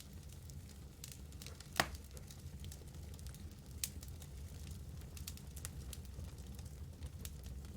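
Wood fire crackling in a fireplace: burning logs give off scattered sharp pops and snaps over a low steady rumble. The loudest pop comes about two seconds in.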